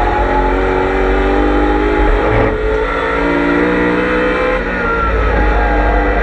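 BMW M3 E92's V8 engine running hard under racing load, heard from on board. There is a gear change about two and a half seconds in, then the revs climb again, with another shift near the end.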